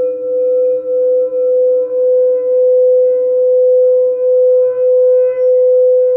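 Singing bowl sounding a sustained, steady ringing tone, with a fainter lower tone beneath it and the loudness swelling and dipping about twice a second.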